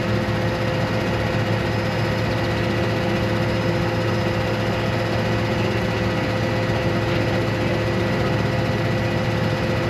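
A vehicle engine running steadily: a constant drone with a few steady tones over it, unchanging in level throughout.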